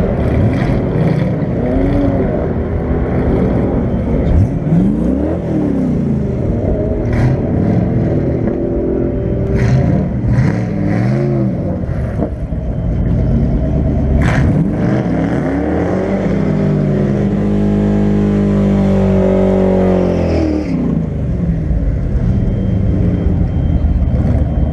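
Factory Five Cobra replica's engine heard from the open cockpit, idling and revved in repeated quick throttle blips, then held at a steady higher rev for several seconds before dropping back to idle.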